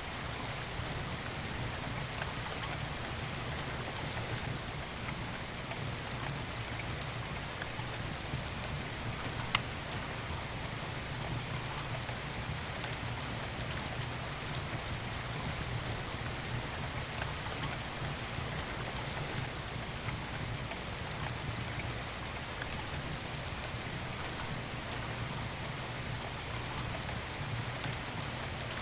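Steady rain falling, with a wood fire crackling in a fireplace. One sharp pop comes about a third of the way in.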